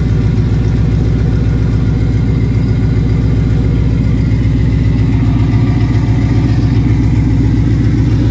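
Turbocharged engine idling steadily on its first run after a turbo install.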